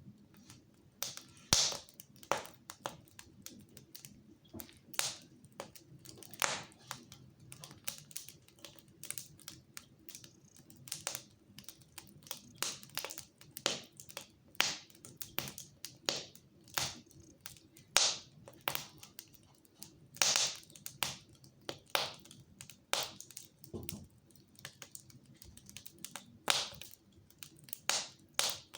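Wood fire in a fireplace crackling: a steady scatter of irregular sharp snaps and pops, a few of them much louder than the rest.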